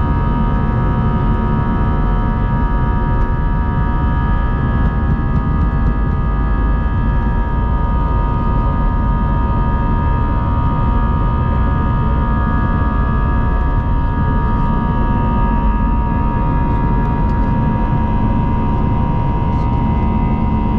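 Airbus A320 cabin noise in flight: a steady rush of jet engines and airflow with several constant whining engine tones over it.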